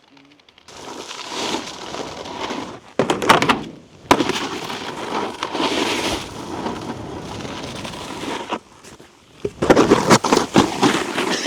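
Snowboard sliding and scraping over icy, slushy snow, with clusters of sharp clattering knocks about three seconds in and again near the end.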